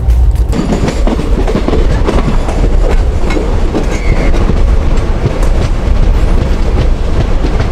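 Indian passenger train running along the track: a steady heavy rumble with the wheels clattering over the rail joints.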